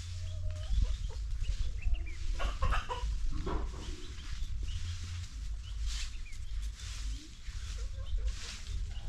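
Domestic chickens clucking in short calls, most of them a couple of seconds in, over a steady low rumble.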